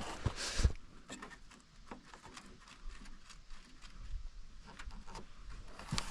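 Scattered light clicks and knocks of hands working at a snowmobile's clipped-in plastic tail light and rear trim, with a louder scraping rustle at the start and again near the end.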